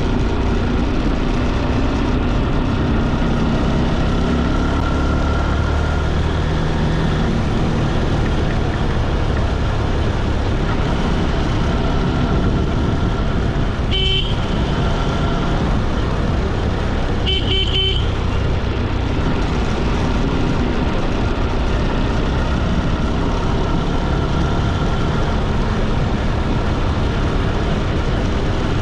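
Steady road, wind and engine noise of a moving motorbike ride. A vehicle horn gives a short honk about halfway through and another, slightly longer one about three seconds later.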